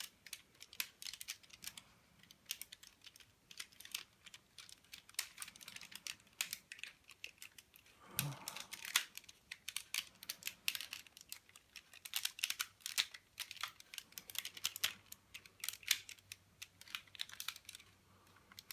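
Plastic parts of a Transformers Optimus Prime toy figure being handled and moved into position: a run of light, irregular clicks and rattles.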